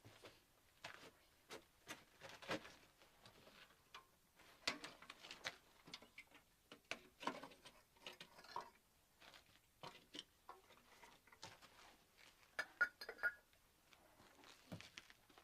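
Faint, irregular small taps, clicks and light knocks of objects being handled, with a brief ringing clink of metal about three-quarters of the way through.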